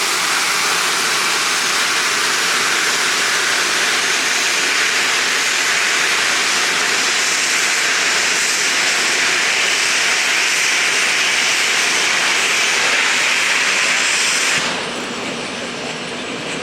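A geared steam logging locomotive venting steam in a loud, steady hiss that cuts off suddenly near the end.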